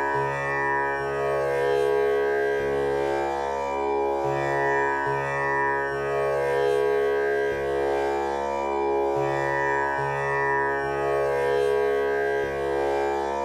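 Tanpura drone tuned to the C# male scale: its strings are plucked one after another in a steady cycle that repeats about every five seconds, each note ringing on so the buzzing drone never breaks.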